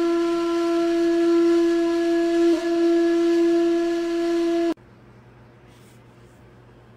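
One long held note from a wind instrument, steady in pitch apart from a brief dip about two and a half seconds in; it cuts off suddenly partway through, leaving only a faint low hum.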